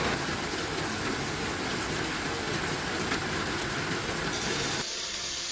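Strong storm wind blowing hard, with rain, as a dense steady rush of noise recorded on a mobile phone. About five seconds in it cuts abruptly to a thinner, quieter stretch of the same kind of noise.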